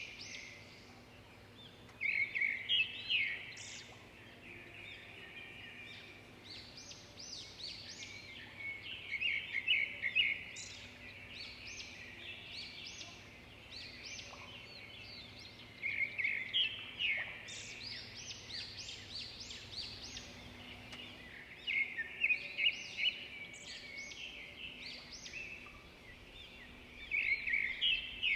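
Several songbirds singing and chirping, with a louder, rapid song phrase repeated about every five to seven seconds over a steady background of twittering.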